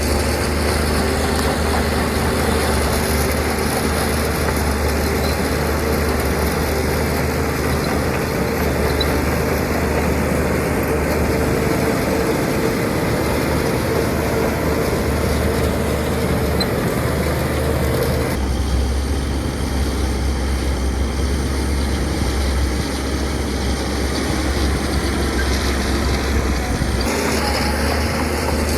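Heavy diesel earthmoving machinery running steadily, a low engine drone with a mechanical hum. The sound changes abruptly about two-thirds of the way in and again near the end.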